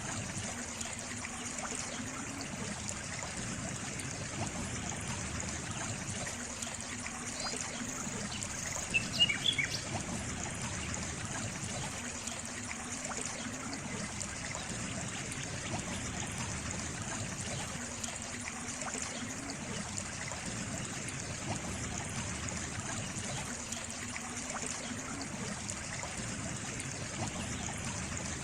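Water trickling steadily, like a small stream. A faint low tone comes back about every six seconds. About nine seconds in there is a brief cluster of sharp, louder clicks.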